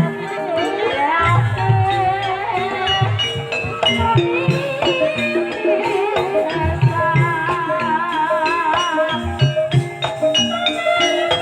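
Javanese gamelan music in campursari style accompanying an ebeg dance: struck metallophone notes at fixed pitches, low drum beats, and a wavering melodic line above them.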